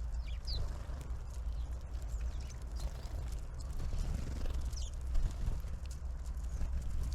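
A few brief, high, falling call notes from small birds at a feeder, over a steady low rumble.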